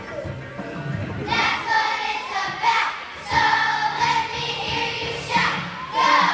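A song: several voices singing together over a backing track, in phrases of a second or two.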